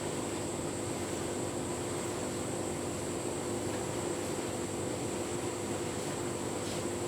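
Tumble dryer running a full load of bedding on a cottons programme: a steady machine hum and whirr that does not change.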